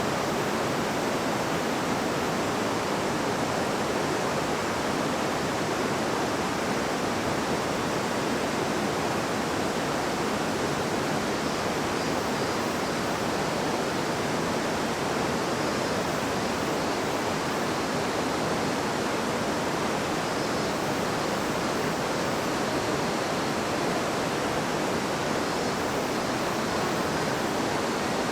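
River water babbling and rushing over stones: a steady, even rush with no breaks.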